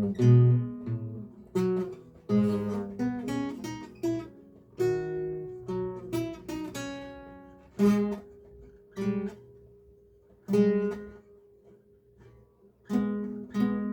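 Solo lute played unaccompanied: a recercar in plucked single notes and chords, each ringing and fading. The phrases come with short gaps, and there is a quieter lull a little before the end, after which the playing resumes.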